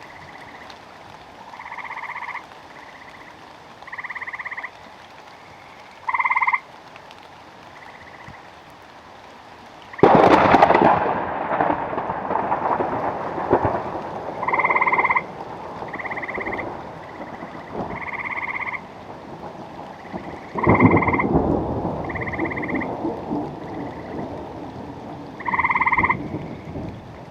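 Frogs croaking in the rain, short repeated calls about every two seconds. Thunder breaks sharply about ten seconds in and rumbles away over several seconds, and a second rumble of thunder comes about twenty seconds in.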